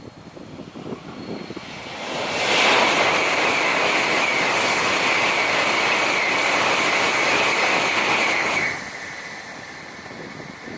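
N700-series Tokaido Shinkansen passing at speed. A rumble builds, then a loud rushing pass with a steady high whine lasts about six seconds. It cuts off abruptly, leaving a fading rumble.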